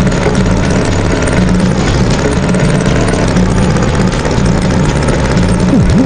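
Tractor engine running steadily, a loud low rumble.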